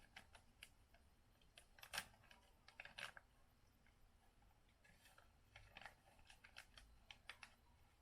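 Near silence broken by faint, irregular clicks and crackles, a little louder about two and three seconds in.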